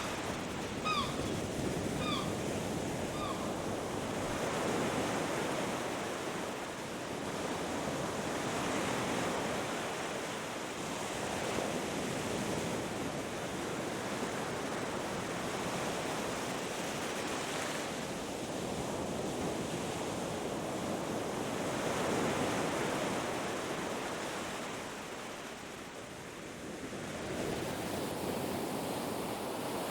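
Ocean waves breaking and washing up on a beach, a continuous rush that swells and eases every few seconds. Near the start, a bird gives three short calls.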